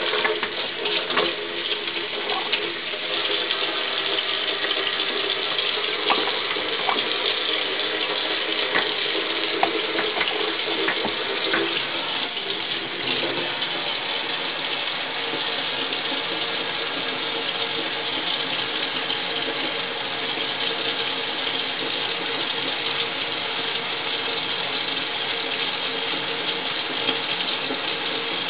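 Steady rush of running water, with scattered clicks and knocks through the first half.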